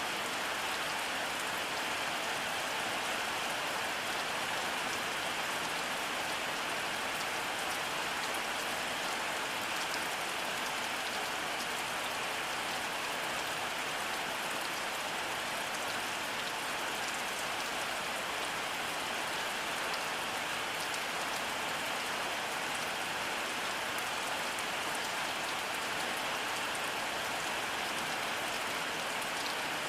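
Steady rainfall, an even hiss of drops on surfaces with faint scattered drip ticks and no distinct thunder.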